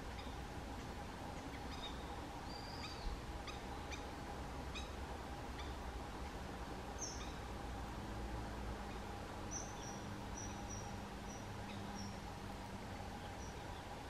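Small birds calling: scattered short high chirps, then a run of short, evenly spaced high notes in the second half, over a steady low background hum and hiss.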